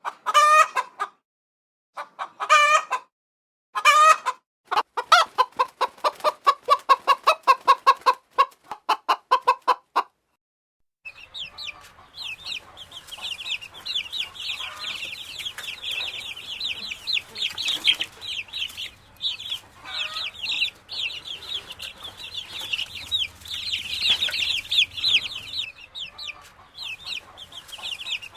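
Chickens: three short wavering calls, then a run of quick, regular clucks until about ten seconds in. After a brief silence, many chickens call over each other in a dense, high-pitched chatter for the rest of the clip.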